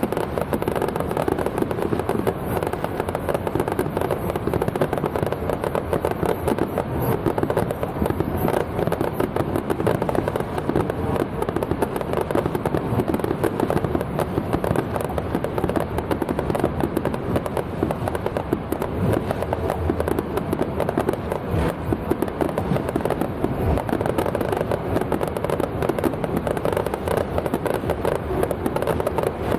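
Firecrackers going off in a dense, unbroken crackle.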